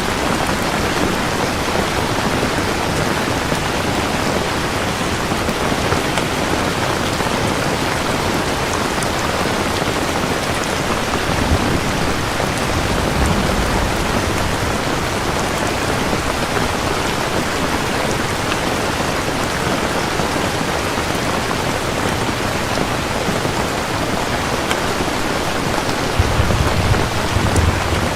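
Steady, heavy rain falling, with low rumbles of thunder about halfway through and again near the end.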